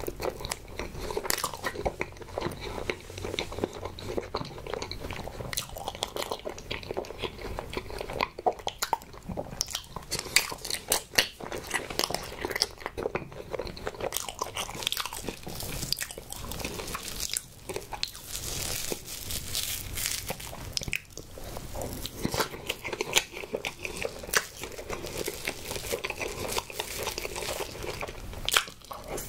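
Close-miked eating sounds: a person chewing soft strawberry desserts and cream, a steady run of wet mouth smacks and small clicks.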